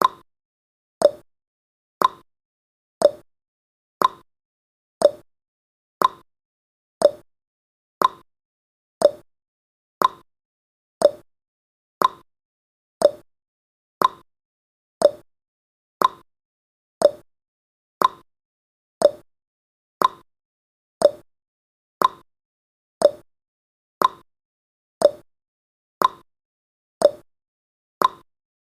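Timer ticking sound effect: a short, sharp tick once every second, alternating between a higher tick and a lower tock, like a clock.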